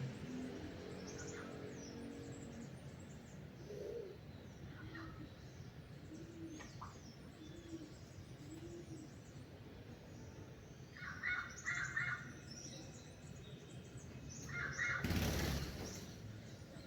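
Wild birds calling at dawn: scattered high chirps, a low call repeated four times, and quick bursts of chirping in the second half. A brief rush of noise comes near the end.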